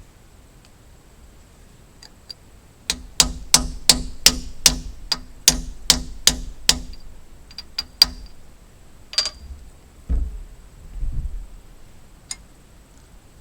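Metal being struck with a hammer: about a dozen sharp, ringing blows at roughly three a second, then a few lighter clinks and a couple of duller thumps.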